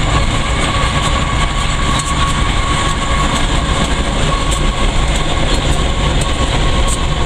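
Freight train hauled by five locomotives running steadily alongside, heard from inside a car driving at the same pace, with an unbroken rumble and occasional light clicks.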